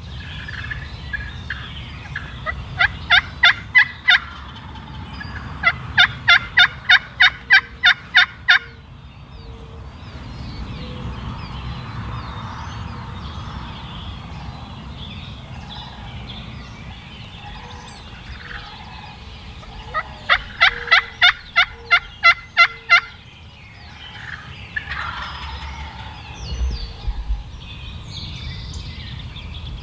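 Turkey calling in three runs of evenly spaced, loud yelping notes, about three a second, with quieter stretches between.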